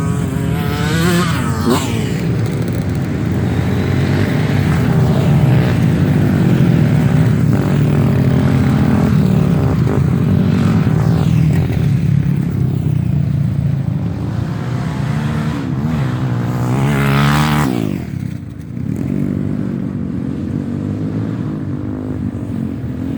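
Dirt bike engines running and revving throughout, with one bike sweeping past close about a second in and another near 17 s.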